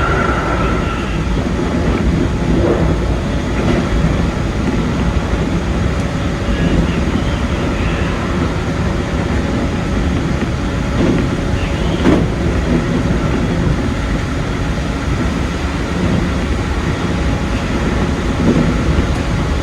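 Keikyu 2100 series electric train running along the line, heard from the driver's cab: a steady rumble of wheels on rail, with a single knock about twelve seconds in.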